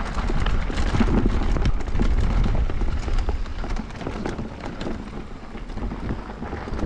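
Electric mountain bike riding fast down a rough dirt bike-park trail: wind buffeting the helmet or bike camera's microphone as a heavy low rumble, with tyre noise on dirt and rocks and many quick knocks and rattles from the bike over bumps. The rumble is strongest in the first few seconds.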